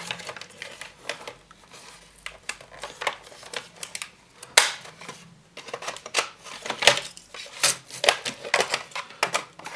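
Plastic diffuser cover of a narrow LED light fixture being pressed into its housing: a series of plastic clicks and snaps, the loudest one about four and a half seconds in.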